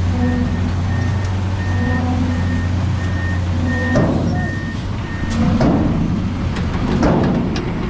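A heavy truck's reversing alarm beeping about every half second over its running diesel engine. The beeping stops about five seconds in, and rougher engine and machinery noise follows.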